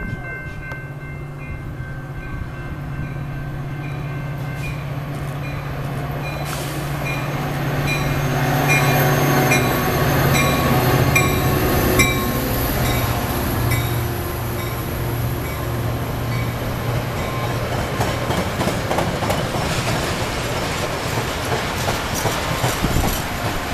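Metra diesel-hauled commuter train approaching and passing at speed. The locomotive's low engine hum grows louder as it nears and goes by about halfway through. The bilevel passenger cars then follow with a heavy rumble and clattering of wheels over the rails.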